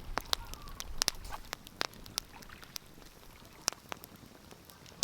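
Wood fire crackling, with sharp irregular pops and snaps every half second or so over a soft hiss.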